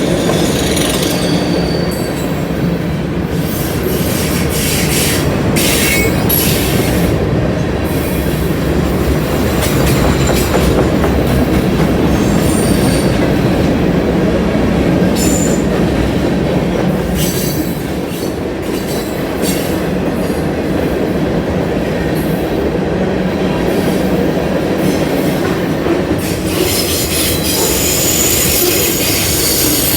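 Union Pacific mixed freight train rolling past at a steady pace, with a continuous rumble and clatter of steel wheels on rail. Brief high-pitched wheel squeals cut in near the start and again over the last few seconds.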